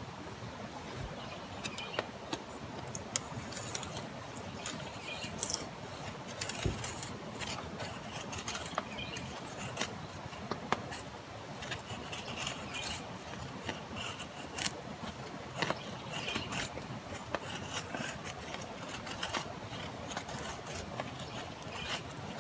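Steady hiss of light rain, with scattered clicks and small knocks throughout.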